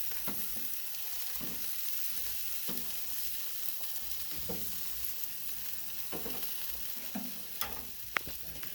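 Jerk chicken sizzling on a grill: a steady hiss, with a few light clicks and knocks near the end.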